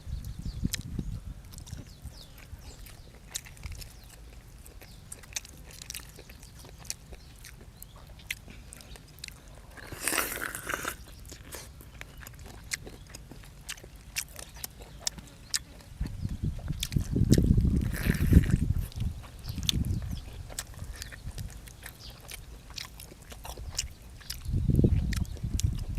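Close-up chewing and mouth sounds of someone eating chicken soup with rice noodles and fresh vegetables: many small wet clicks and smacks, a short louder noisy burst about ten seconds in, and heavier, deeper chewing bouts in the second half.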